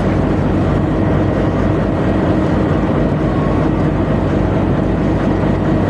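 Tugboat engine running at a steady pitch: a loud, unbroken low drone.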